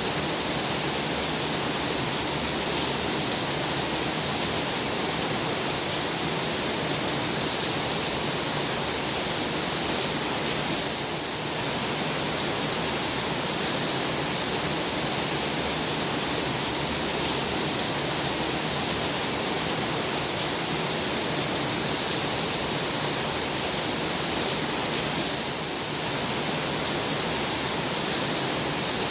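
Heavy rain falling steadily, a dense even hiss, with two brief dips in level, about a third of the way in and near the end.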